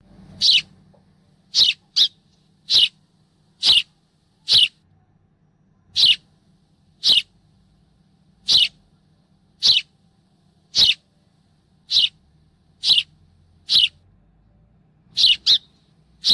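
A sparrow chirping: a series of short, sharp single chirps, roughly one a second, with two in quick succession near the end.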